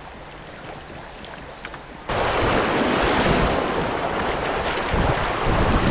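Loud, steady rushing of wind buffeting the microphone on open water, starting abruptly about two seconds in after a quieter stretch of soft background noise.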